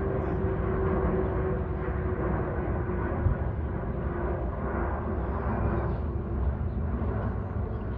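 Aircraft engines passing overhead: a steady low rumble with a droning tone that slowly falls in pitch as the plane moves away.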